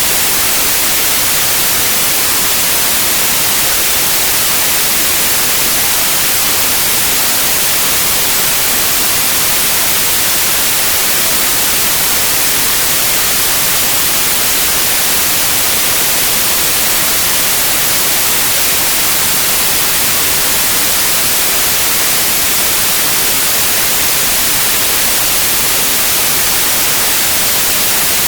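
Steady, loud white noise: an even electronic hiss, strongest in the high end, that does not change.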